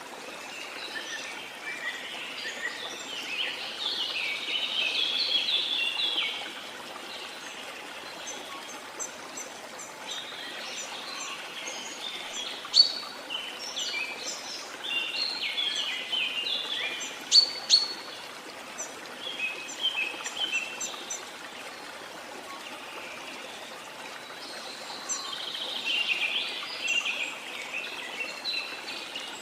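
Small birds singing and chirping in repeated bursts of quick twittering phrases, with a few sharp single chirps, over a steady rush of water.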